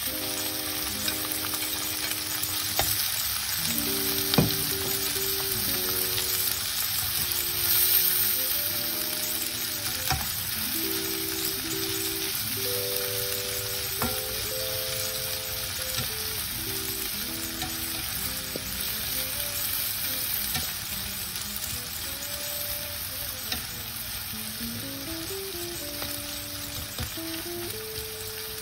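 Diced onion, capsicum, corn, sausage and bacon sizzling in hot oil in a frying pan, stirred with a plastic spatula that now and then clicks against the pan. A soft melody of slow held notes plays underneath.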